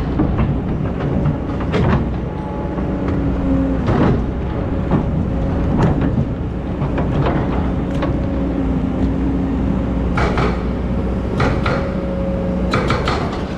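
Excavator's diesel engine running under load with a hydraulic whine that shifts in pitch, and several sharp clanks and knocks as it works sand and stones.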